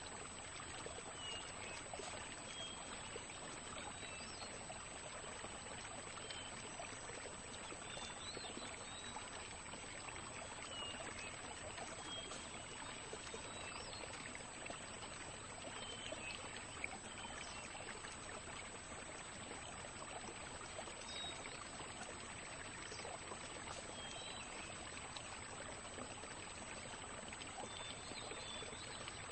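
Faint, steady wetland ambience: an even hiss with scattered short, high chirps of distant birds.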